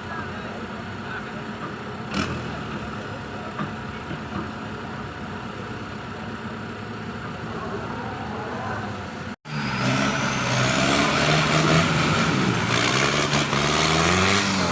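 Off-road 4x4 engine running steadily, then after a sudden cut a louder engine revving, its pitch rising and falling, with a high whine that climbs and falls along with it.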